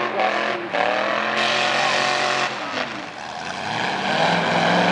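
Race pickup truck engines with loud exhaust running hard under throttle, the engine note rising and falling. The sound eases off about three seconds in, then a louder engine note builds near the end.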